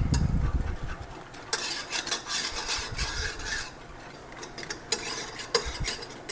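A whisk stirring and scraping around a saucepan of thickening chocolate pudding, with irregular strokes and sharp clinks against the pot.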